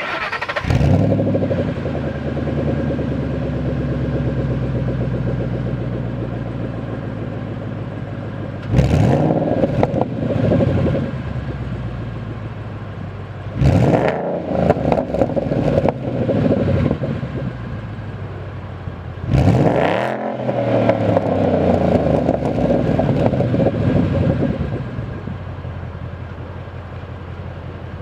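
2011–2014 Ford Mustang GT's 5.0 L V8 running through an aFe cat-back exhaust with high-flow mufflers: it starts up, settles from a fast idle, and is revved three times, the last rev held longest, before dropping back to idle.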